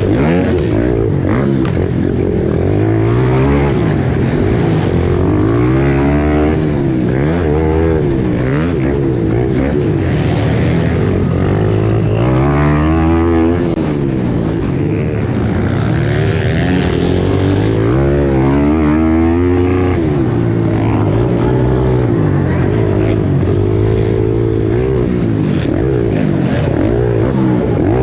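Pit bike engines racing: the nearest engine revs up and drops back over and over as the throttle is opened and shut every second or two, with other bikes' engines running underneath.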